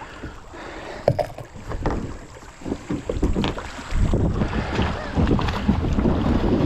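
Knocks and water sounds around a kayak on a river, with one sharp knock about a second in. From about four seconds in, wind rumbles on the microphone.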